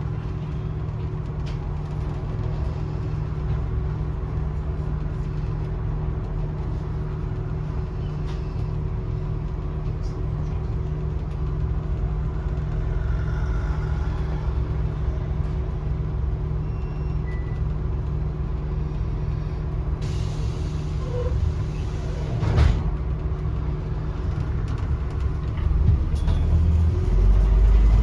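Onboard a Scania N230UD double-decker bus on the move: its engine and drivetrain make a steady low drone with a constant whine over it. A single sharp thump about three-quarters of the way through, and the engine noise grows louder near the end.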